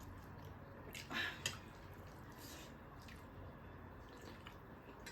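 A person eating close to the microphone: soft, wet chewing and mouth sounds, with a louder bite about a second in followed by a sharp click.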